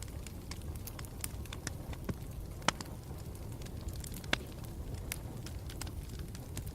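Campfire burning with a low steady rumble and frequent sharp crackles and pops, two of them louder, one a little under three seconds in and one about four seconds in.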